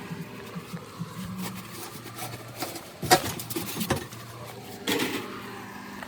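A few sharp knocks and clatters of tools and parts being handled, about three seconds in and again around five seconds, over a steady low hum.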